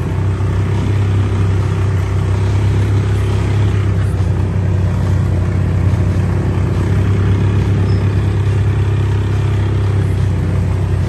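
ATV engine running at a steady speed, a constant low hum with no change in pitch.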